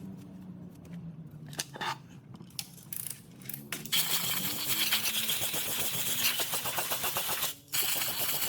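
A machine's hum falling in pitch as it winds down. About halfway in, a loud, rapid metallic rattle starts, breaks off briefly, then starts again.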